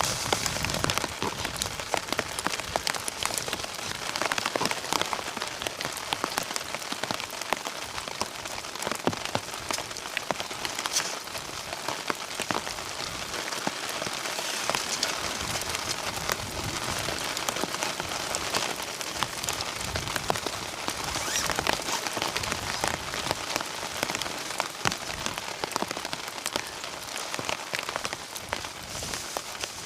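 Steady rain, with many separate drops striking close by over an even hiss.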